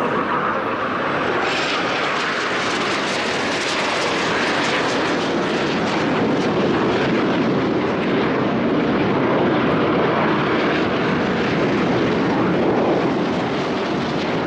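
Aermacchi MB-339 jet trainers flying past, their turbojets making a loud, steady rushing noise that grows brighter about a second and a half in. The noise cuts off abruptly at the end.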